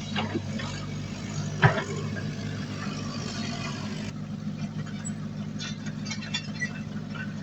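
Heavy earthmoving machinery's diesel engine running steadily, with rattles and one sharp metallic clank about two seconds in.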